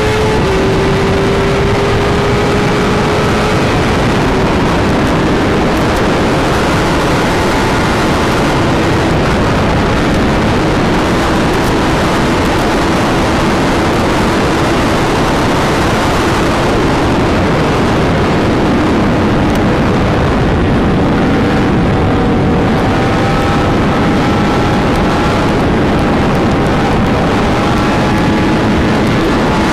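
Sport motorcycle riding at speed, with heavy wind rush over the microphone covering a steady engine note that drops slightly a few seconds in and then holds.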